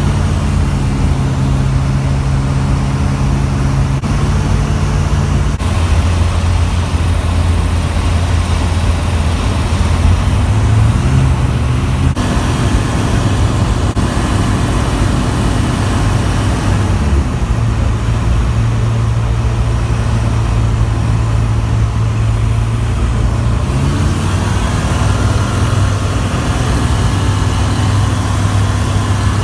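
Zodiac 601 light aircraft's piston engine and propeller droning loudly, heard from the cockpit in flight, its pitch shifting a few times as the engine speed changes.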